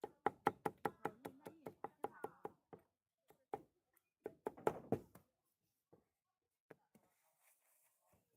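Knife chopping on a cutting board as a flatbread is cut up for a customer: a fast run of sharp strokes, about four or five a second, then a second short flurry about four seconds in, and a few scattered taps near the end.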